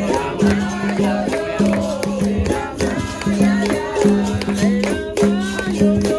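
Capoeira roda music: a berimbau sounding a repeating pattern of held low notes with its caxixi rattle, together with hand percussion and singing voices.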